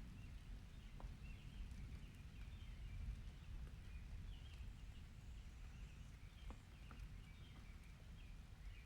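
Faint, steady low rumble with short, high squeaks repeating every half second or so, the creak of a park swing swaying on its chains in the wind.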